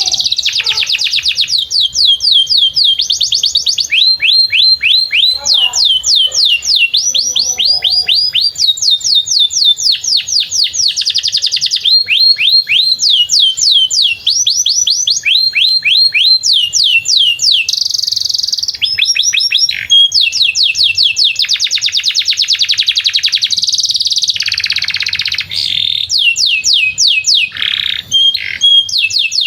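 Domestic canary singing a long, unbroken song of rapid trills. Runs of quick, high, downward-sweeping notes repeat several times a second, changing pattern every few seconds with only brief breaks.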